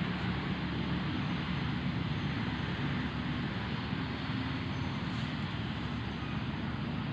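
A steady low drone with an even hiss over it, unchanging throughout, like a running engine or motor.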